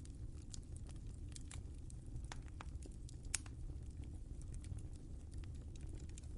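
Wood fire crackling in a fireplace: scattered small pops and snaps over a steady low rumble of the flames, one sharper pop a little past halfway.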